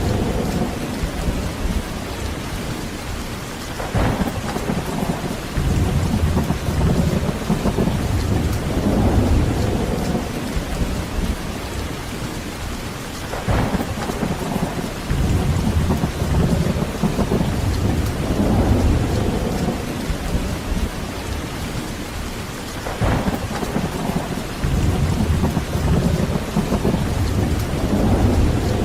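Heavy steady rain with thunder: three sharp cracks, about every nine or ten seconds, each followed by several seconds of deep rolling rumble.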